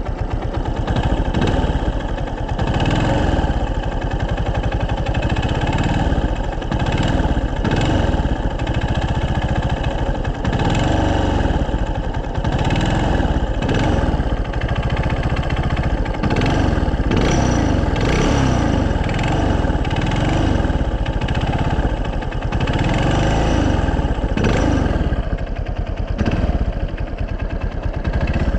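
Yamaha Fazer 250's single-cylinder engine revved up and down over and over, with a knocking noise from the engine that the owner believes is a worn connecting-rod bearing.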